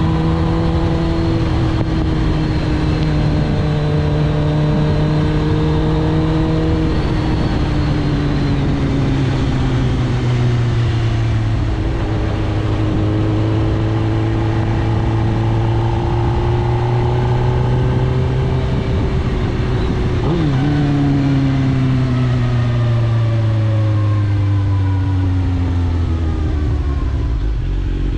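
Inline-four engine of a 2006 Suzuki GSX-R1000 K6 with a full Akrapovič titanium exhaust, running under way: revs held steady, then easing off and building again. About two-thirds of the way in the pitch dips and jumps sharply, then falls steadily to a low pitch near the end as the bike slows.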